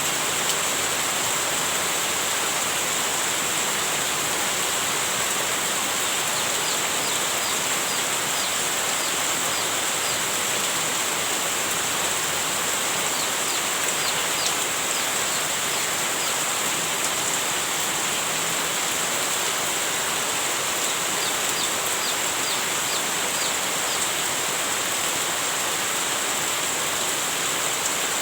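Heavy rain falling steadily. It is a constant hiss with a high, even ring above it and brief high chirps now and then.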